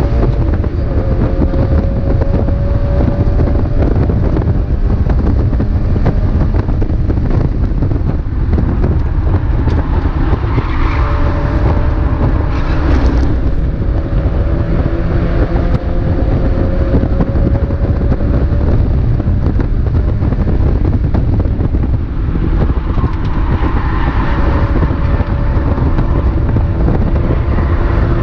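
A Mazda MX-5 race car's four-cylinder engine running hard at racing speed. The sound is loud and steady, with its pitch drifting slowly up and down as the revs change, over a dense rumble of road and wind noise.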